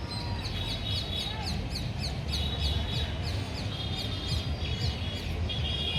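Birds calling: a rapid series of short, high, falling chirps, about three a second, with steadier high trills between them, over a low rumble of street traffic.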